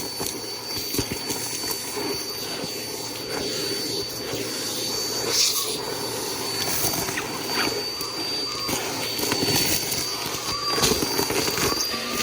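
Bissell PowerForce Helix upright vacuum running steadily, its motor giving a constant high whine, with scattered clicks and rattles as it is pushed over the floor.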